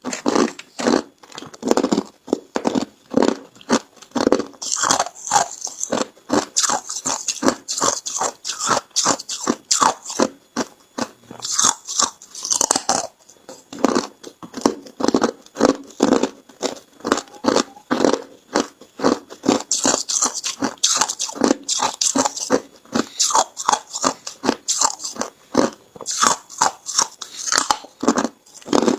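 Hard ice being bitten and chewed close to the microphone: a steady run of sharp crunches, about two to three a second.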